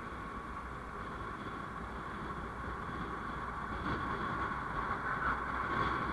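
Onboard sound of a vehicle driving on the road: steady engine and road noise that grows a little louder in the second half.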